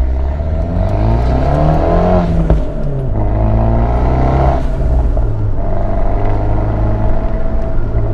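Fiat 124 Spider Abarth's turbocharged 1.4-litre four-cylinder through an aftermarket Ragazzon exhaust, heard with the roof down, accelerating: the engine note rises twice, each time breaking off and dropping at a gear change, then settles into a steady cruise.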